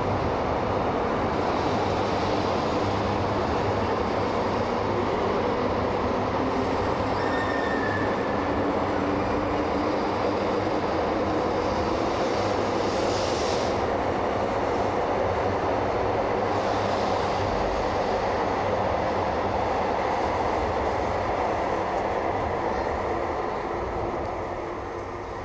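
Shinkansen 200 series F-set high-speed train running past along the platform, with a steady rumble of wheels and running gear. It fades near the end as the rear car pulls away.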